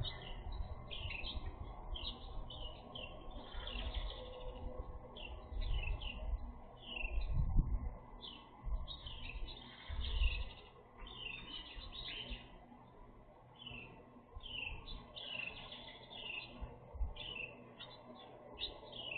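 Many small birds chirping all at once in a dense, continuous chatter of short, quick chirps. Low rumbles come and go under it and are loudest about a third and halfway through.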